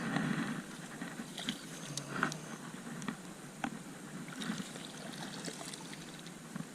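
Water trickling and lapping around a jon boat, with scattered small clicks and knocks.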